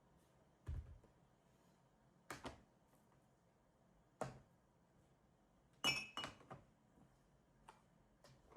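Dishes and kitchenware being handled and set down: a low thunk, a few separate knocks, and about six seconds in the loudest clatter, with a brief ringing clink, followed by faint ticks.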